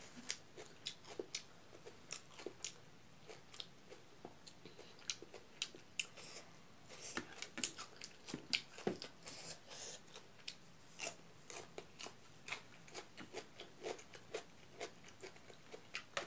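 Faint close-up eating sounds: a person chewing food eaten by hand, many short irregular wet clicks and crunches.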